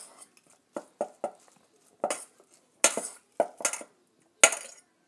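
A utensil clinking against a bowl, about eight irregular strikes, as raw chicken pieces are tossed to coat them in cornstarch.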